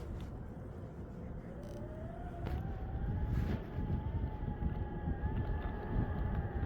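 Meepo Hurricane electric skateboard accelerating: the motors' whine rises in pitch over a second or two, then holds steady at cruising speed, over a constant rumble of the wheels on pavement.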